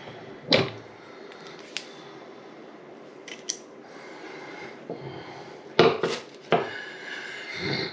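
Sharp clicks and clunks of hard faucet parts being handled as a bathroom faucet cartridge is taken out, with a few scattered knocks and the loudest cluster about six seconds in.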